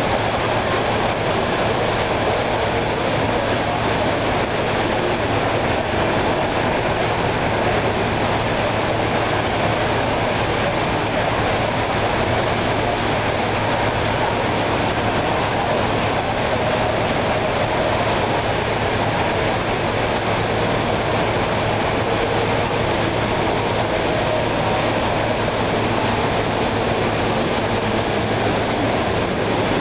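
Model railroad freight trains running on a large layout: a steady, even rumble with no pauses or sudden sounds.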